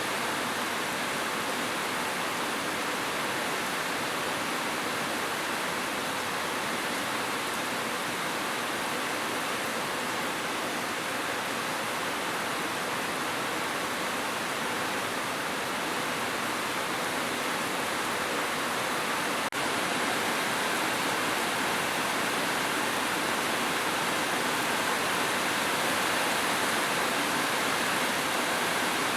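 Heavy rain falling steadily on a roof, a continuous even hiss, with one brief click and a slight step up in loudness about two-thirds of the way in.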